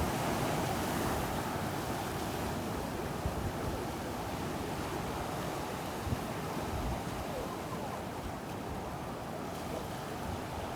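Ocean surf breaking and washing onto a beach, a continuous rushing wash with wind buffeting the microphone.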